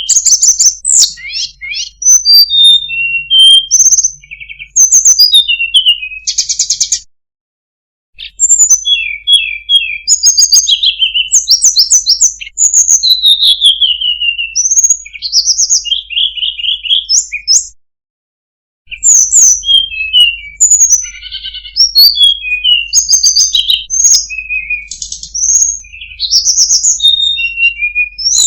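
Tledekan gunung singing a long, varied song of sweet whistled notes, rising and falling slurs and fast trills, one phrase tumbling into the next. The song breaks off into dead silence twice, about 7 and 18 seconds in, for roughly a second each time.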